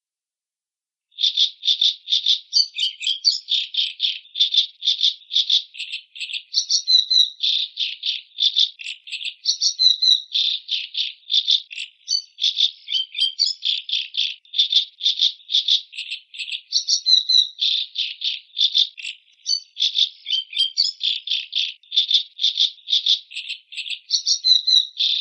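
Macaw calls: a fast, unbroken run of short, harsh, rattling chatter notes, about four a second, starting after about a second of silence.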